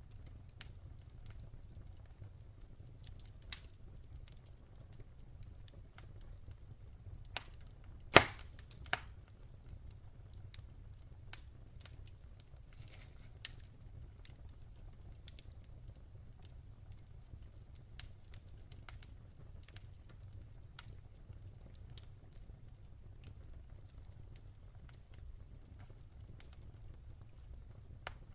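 Campfire crackling: irregular sharp pops and snaps of burning wood, with one loud pop about eight seconds in, over a low steady rumble.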